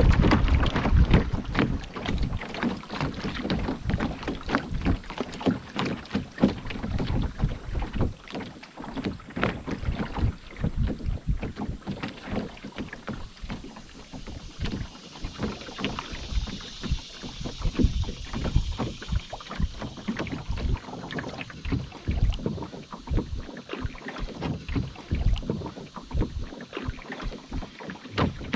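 Canoe on a river: water lapping and splashing against the hull in quick, irregular slaps, with gusts of wind on the microphone.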